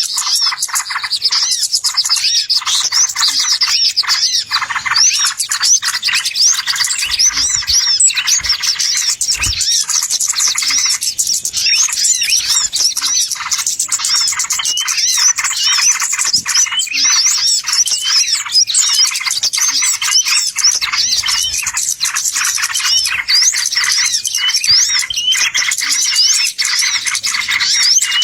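A bird-luring recording: a dense, unbroken chorus of small birds chirping and twittering rapidly, many quick high-pitched calls overlapping with no pauses.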